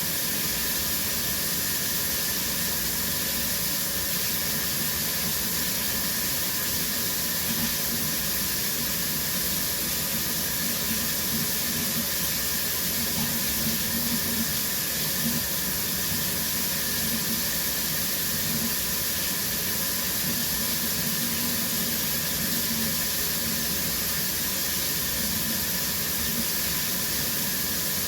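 Shower running steadily: a constant, even hiss of water spraying.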